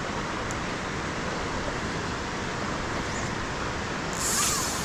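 Waterfall rushing: a steady, even roar of falling water, with a brighter hiss near the end.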